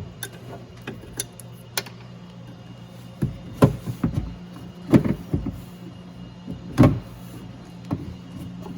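Door latch and lock actuator assembly clattering as it is turned and worked out through the door's inner opening: irregular knocks and clicks of the part against the door shell, the loudest about three and a half, five and seven seconds in, over a steady low hum.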